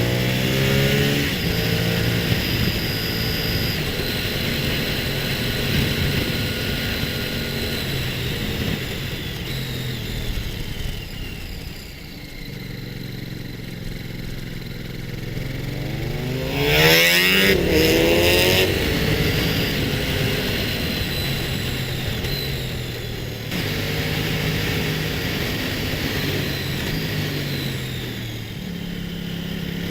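Motorcycle engine running on the road, its revs rising and falling through gear changes, with the loudest acceleration surge a little past halfway.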